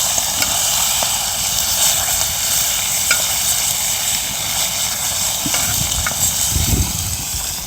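Sea bass and aged kimchi sizzling on a hot iron griddle over a wood fire: a steady high hiss with scattered small pops.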